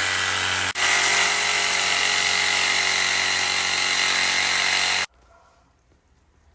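A small electric motor running loudly and steadily with a whine. It drops out for an instant under a second in, then is switched off about five seconds in.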